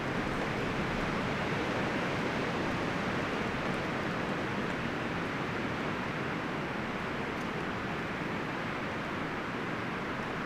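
Wind through forest trees, leaves and branches rustling in a steady, even rush.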